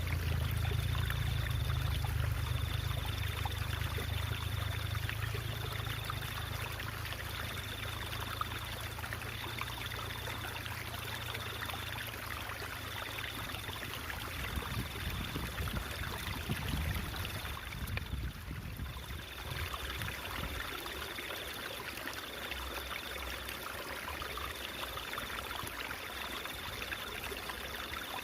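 Stream water trickling and babbling steadily, with a thin high tone pulsing about once every second and a half. A low rumble under it fades out around the middle.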